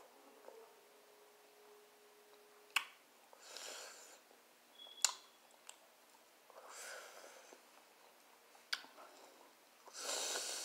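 Faint close-up eating sounds of fried barbecue ribs being bitten and chewed, with three sharp mouth clicks and three soft breathy swells spaced about three seconds apart.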